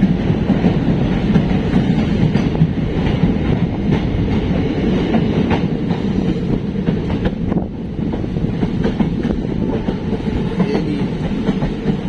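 Passenger train running, its wheels clattering on the rails in a loud, steady rumble, heard from aboard the train.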